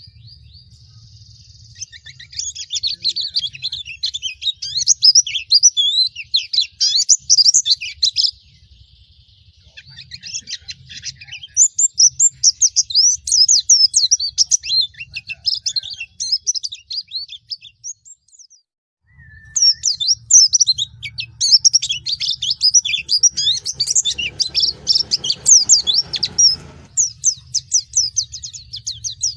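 White-eye (pleci) singing long bouts of rapid, high chirping twitters, with two short pauses between the bouts.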